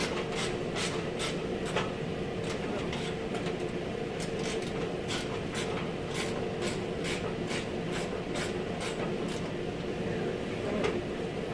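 Light, irregular taps or clicks, about two or three a second, over a steady machine hum with a held mid-pitched tone.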